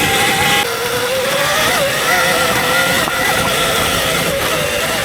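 Electric dirt bike's motor whining, its pitch dipping about half a second in and then climbing and wavering with the throttle, over a steady rushing noise.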